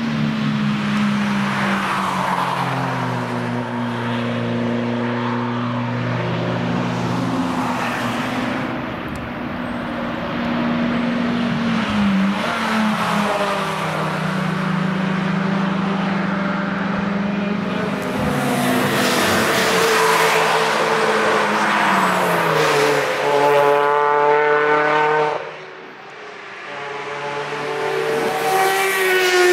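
Cars passing one after another at speed on a race track, their engines running hard with the pitch sliding up and down as they go by. Near the end the sound drops away briefly before another car approaches, its engine pitch climbing.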